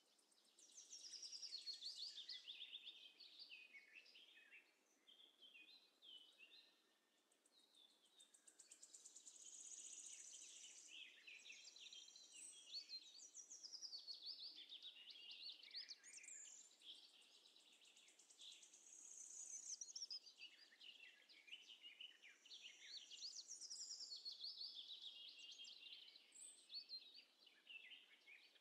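Faint chorus of songbirds, many quick chirps and trills with rising and falling notes, overlapping and coming and going in waves.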